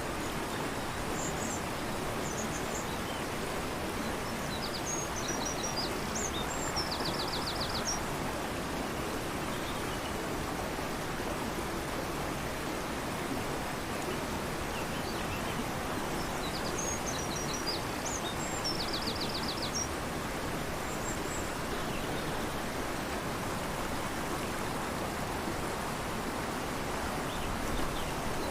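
A fast-flowing river rushing steadily, with a small songbird singing the same short phrase twice, each time a few high chirps ending in a quick rattling trill, and a few more chirps near the end.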